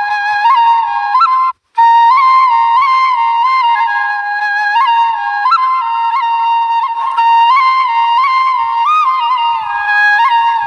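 Background music: a flute melody with small ornamental turns, briefly cutting out about one and a half seconds in.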